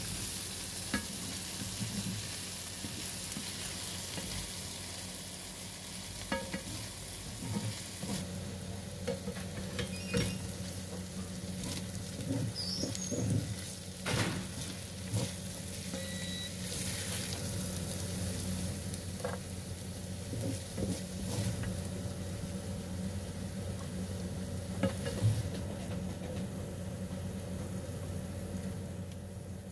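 Diced ham and vegetables sizzling in a hot frying pan while a wooden spatula stirs and scrapes them around, with scattered knocks of the spatula against the pan. A steady low hum runs underneath.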